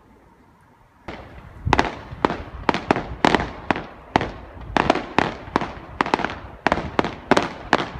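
Aerial fireworks bursting in a rapid salvo: after a quiet first second, sharp bangs follow one another about two or three a second.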